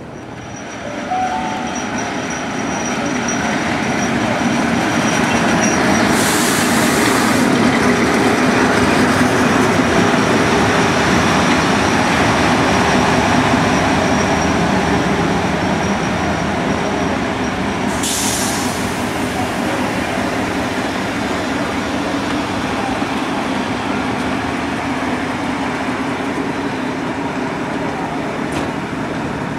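Heritage passenger train with a diesel locomotive rolling along the platform: engine running and wheels rumbling on the rails, building over the first few seconds and then slowly easing. A thin high squeal runs through the first half, and two short hisses come about 6 and 18 seconds in.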